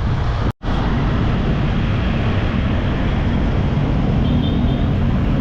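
Riding on a motorbike in traffic: the engine running with wind rushing over the microphone. The sound cuts out for an instant about half a second in.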